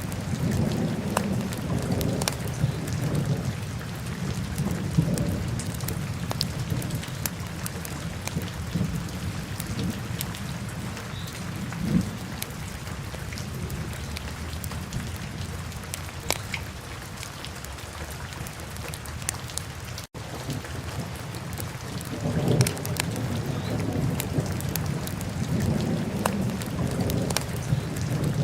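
Wood fire burning in a fireplace: a low, steady rumble of flames with scattered sharp crackles and pops. The sound cuts out for an instant about two-thirds of the way through.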